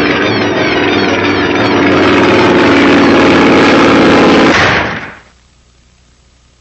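Loud cartoon soundtrack: a dense mix of orchestral music and sound effects that swells about two seconds in, then cuts off suddenly about five seconds in, leaving only faint hiss.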